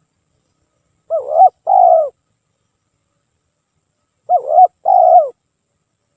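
Spotted dove (tekukur) cooing: two calls about three seconds apart, each about a second long and made of a short note followed by a longer one.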